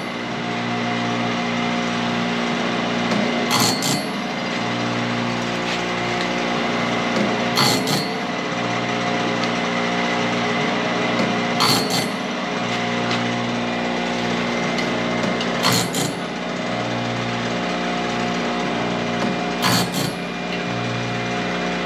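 Wood-Mizer BMS250 bandsaw blade sharpener running steadily, with a sharp click about every four seconds and a low hum that cuts in and out between the clicks as it works through its repeating cycle.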